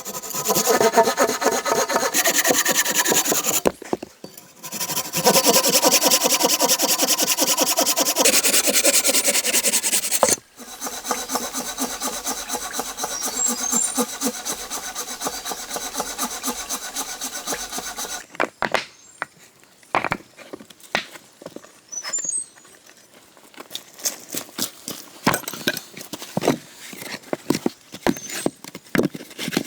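A hand saw cutting through wood in rapid, steady strokes, with short pauses about four and ten seconds in, stopping after about eighteen seconds. Scattered knocks and taps follow.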